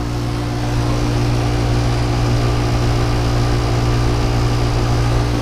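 York packaged air-conditioning unit running: a steady, even hum with a strong low drone and a few constant tones above it. Its fans are turning unusually slowly, and the unit is kind of noisy.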